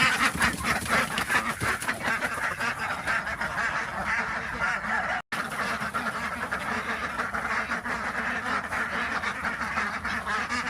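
A flock of domestic ducks quacking continuously, many short calls overlapping, with a momentary dropout about halfway.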